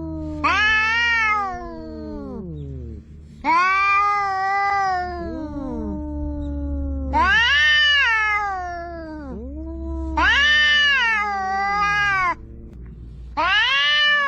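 Two cats yowling at each other in a standoff. Five loud, long, wavering yowls come about every three seconds, each falling away at its end, and a lower, quieter drawn-out moan fills the gaps between them, over a steady low rumble.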